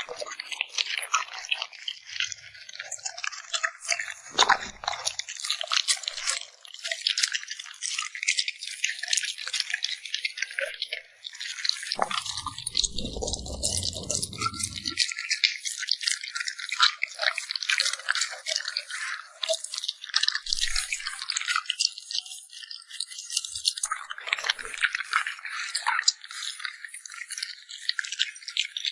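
A dog chewing and crunching food close to the microphone: a dense run of crisp clicks and crackles. A dull low noise lasts about three seconds near the middle.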